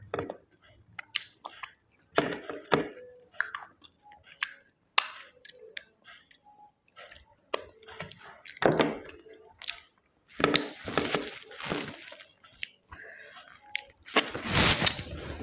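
Close eating sounds: chewing and crunching in short irregular bursts, with small clicks, and louder crunchy stretches in the second half.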